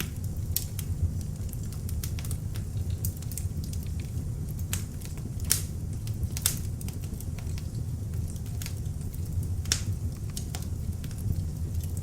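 Beech-wood log fire in an open fireplace crackling: irregular sharp pops and snaps, a few louder ones, over a steady low rush of the flames.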